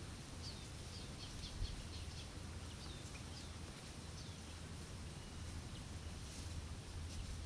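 A bird calling a quick run of short, high, falling chirps during the first three or four seconds, over a faint steady low hum of background noise.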